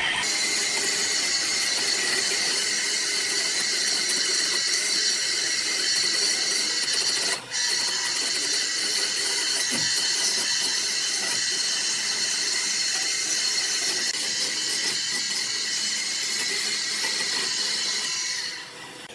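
An electric woodworking power tool running steadily with a high whine over a hiss, dipping briefly about seven seconds in and dying away near the end.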